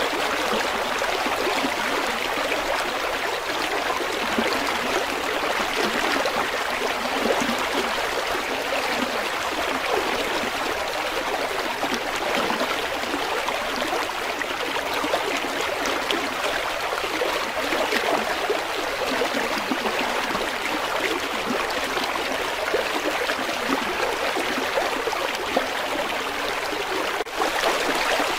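River water flowing, a steady, continuous rush of running water.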